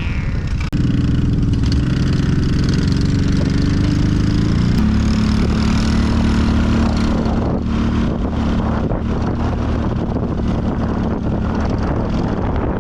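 Vehicle engine running under throttle, cutting in abruptly just under a second in; its pitch climbs slowly for a few seconds, steps up about five seconds in and then holds steady.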